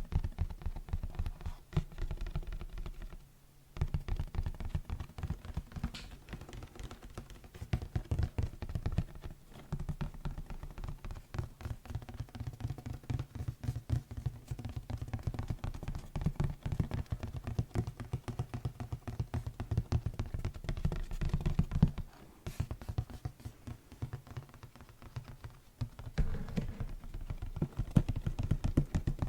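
Rapid, dense ASMR tapping close to the microphone, many quick knocks with a deep thump to them. There is a short break about three seconds in, and a softer stretch near the end.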